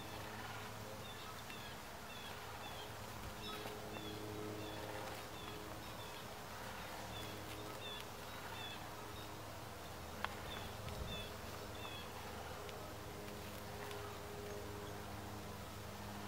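Small songbirds chirping, short high chips repeated every fraction of a second, over a steady low hum. A single sharp click about ten seconds in.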